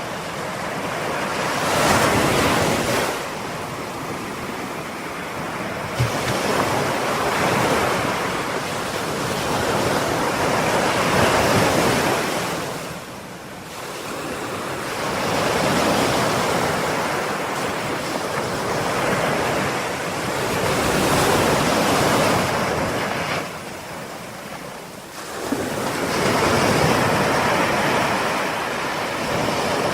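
Ocean waves breaking and washing on the shore, the surf swelling and ebbing every few seconds, with a little wind.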